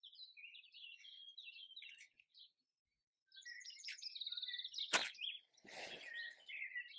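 Small birds chirping in quick short high notes, with a brief pause about two and a half seconds in and a rapid trill around four seconds in. A sharp click about five seconds in, then a short burst of noise.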